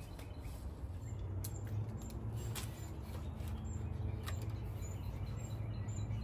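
Small birds chirping, short high notes that come in a quick run near the end, over a low steady rumble, with a few light clicks.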